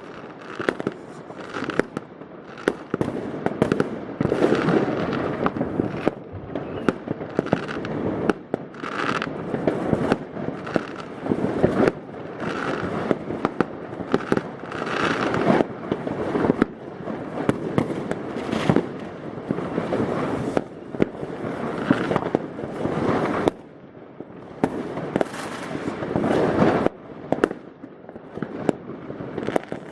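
New Year's Eve fireworks and firecrackers going off continuously over the rooftops: many sharp bangs and crackling, echoing between buildings, with a brief lull a little after twenty seconds.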